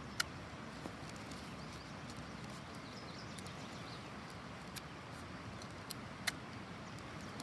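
Faint handling noise of tape and paper being pressed onto a cardboard tube, with a few sharp clicks, the strongest near the start and about six seconds in.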